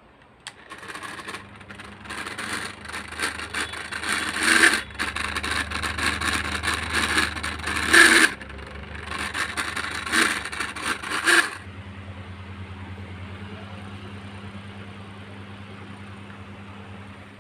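Mini electric fan running with a raspy, scratchy scraping noise over its steady motor hum, the hoarse noise the fan has developed. About two-thirds of the way through the scraping stops, leaving only the even hum of the motor.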